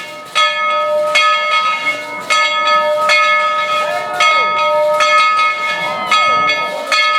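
Steam locomotive bell on Baldwin #190 ringing as the engine departs, struck about once a second in an uneven swinging rhythm, each stroke ringing on and fading before the next.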